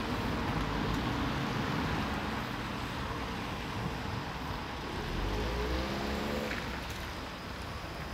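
Steady vehicle running noise with a rumble. An engine note rises in pitch and eases off again about five to six seconds in.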